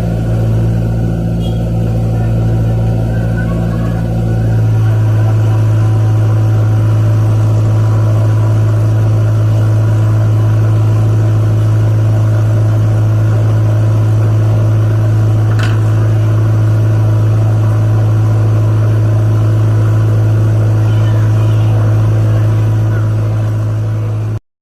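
Engine running at a steady speed with a low, even hum, getting a little louder and steadier about four seconds in.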